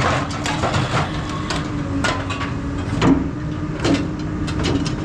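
Hydraulic scrap metal shear running with a steady machine hum, over irregular metal clanks and knocks as scrap is handled and cut. The loudest knock comes about three seconds in.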